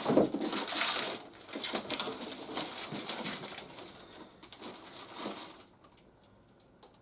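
Plastic and cardboard toy packaging being handled and pulled apart: crinkling and rustling with many small clicks and scrapes, stopping about six seconds in.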